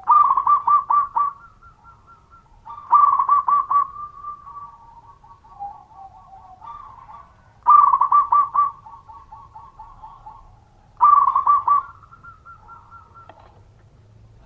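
Zebra dove (perkutut) singing: four loud cooing phrases a few seconds apart, each a quick run of repeated staccato notes lasting about a second. Softer trailing coos fill the gaps between the phrases.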